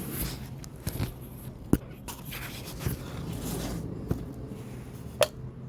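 Handling noise as objects are set down and moved about: a few sharp knocks and clicks, the loudest about two seconds in and near the end, with brief scraping between them.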